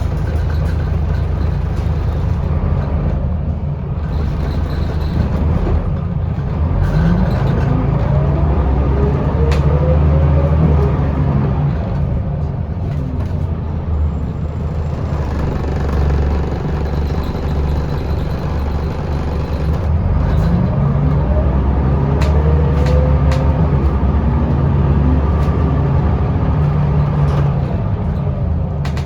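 Scania L94UB bus with a ZF automatic gearbox, heard from on board, running along with steady engine and road noise. It accelerates twice, the pitch rising each time, about a quarter of the way in and again after the middle.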